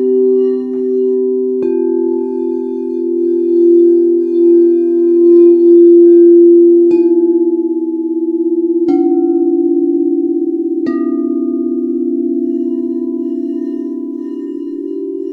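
Singing bowls ringing with a steady, wavering hum, struck again four times: once about two seconds in, then three times a couple of seconds apart through the middle, each strike adding a fresh higher ring over the drone.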